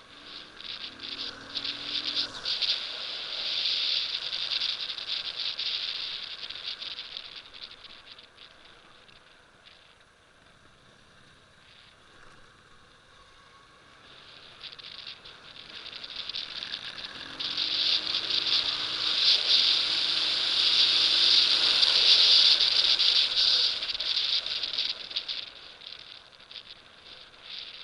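Motorcycle riding, with a loud crackling hiss of wind and road noise that swells up twice and fades between. Under it, the engine's note rises in pitch as the bike speeds up.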